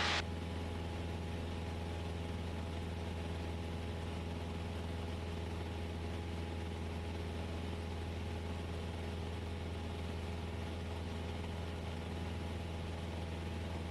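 Cessna 172S's four-cylinder Lycoming IO-360 engine and propeller droning steadily in cruise-climb, a constant low hum with a few steady higher tones.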